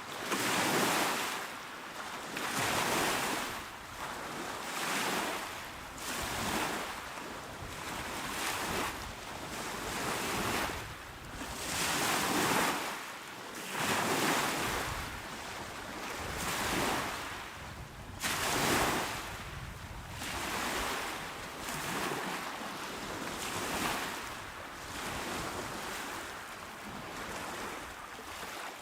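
Small, calm waves breaking and washing onto a shore, one soft surge about every two seconds.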